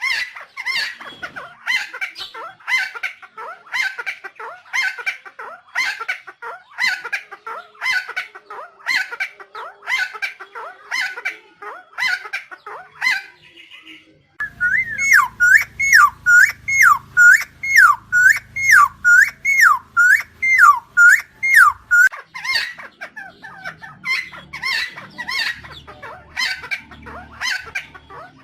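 Helmeted friarbird (Philemon buceroides) calling over and over in a steady run of harsh notes, a little under two a second. About halfway through, the sound switches abruptly to a louder recording of clear notes that each drop in pitch, over a low hum. A few seconds before the end, the first kind of call returns.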